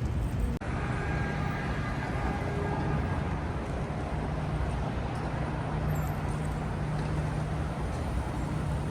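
City street traffic: a steady din of vehicle engines and tyres, with a low engine hum throughout and a brief drop-out just under a second in.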